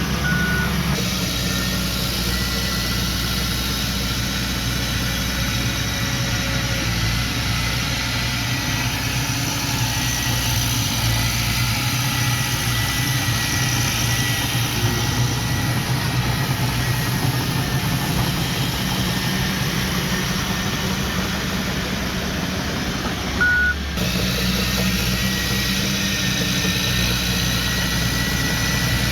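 Diesel engine of earthmoving machinery running steadily, with one short reversing beep about three-quarters of the way through.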